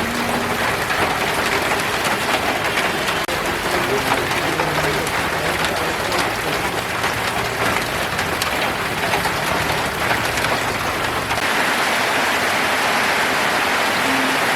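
Rain falling steadily, an even hiss. About eleven seconds in, the low rumble drops away and the hiss turns brighter.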